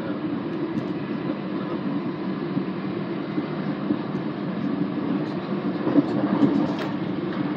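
Steady running noise of a moving passenger train heard from inside the carriage, with a few sharp knocks about six to seven seconds in.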